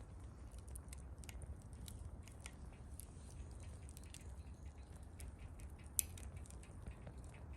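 Wood campfire crackling: small irregular pops and snaps, with one sharper pop about six seconds in, over a low steady rumble.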